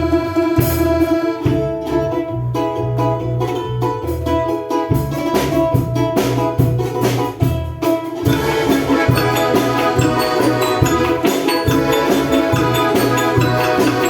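Instrumental folk-style music: plucked strings over a pulsing bass line, played without singing.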